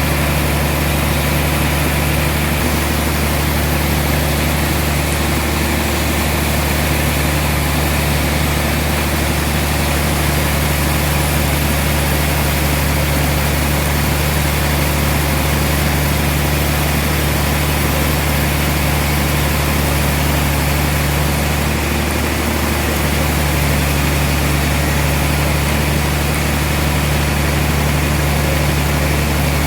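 Sawmill machinery running with a steady, loud, low drone, briefly wavering about three quarters of the way through.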